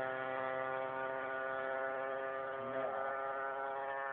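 Aprilia RS 125's single-cylinder two-stroke engine, breathing through a complete Arrow exhaust system, running at steady revs with one even note.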